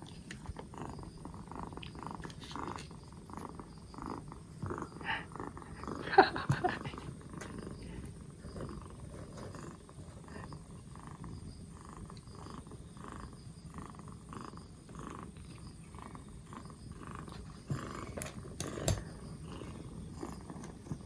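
Kitten purring steadily, in an even rhythmic pulse, with a louder brief sound about six seconds in and a few sharp clicks near the end.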